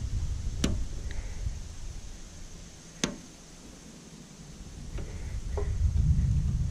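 Wire cutters snipping through wiring inside a stainless steel steamer: two sharp snips about two and a half seconds apart, then fainter clicks near the end.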